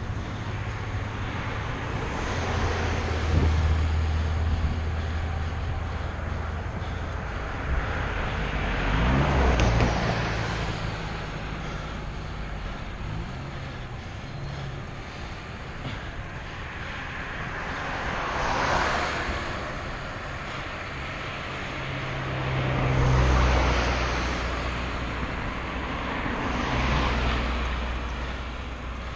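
Outdoor road noise with motor vehicles passing about five times, each swelling with an engine hum and then falling away, over a steady rush of wind.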